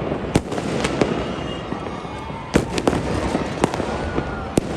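Many fireworks and firecrackers going off at once: a continuous rumble of distant bangs with sharper, closer cracks every second or so, several in quick succession.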